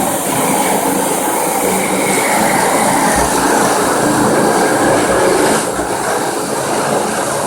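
FastPrep concrete floor grinder running steadily, its diamond grinding plates scouring a concrete floor with a continuous rough grinding noise over the electric motor's hum.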